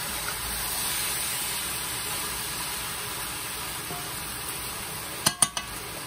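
Chicken pelau (rice, chicken and pigeon peas) frying in a large metal pot with a steady sizzling crackle as a spoon stirs it. About five seconds in, the spoon knocks sharply against the pot a few times.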